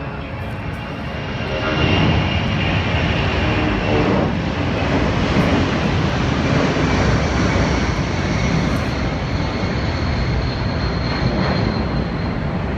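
Low-flying airplane passing close by: loud engine noise that swells about two seconds in and stays loud, with a high whine slowly dropping in pitch.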